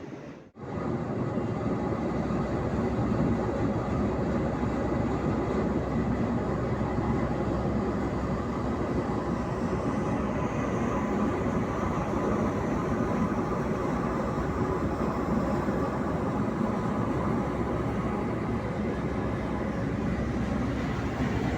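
Steady, loud mechanical rumble of heavy machinery that begins abruptly about half a second in and holds an even level without changing.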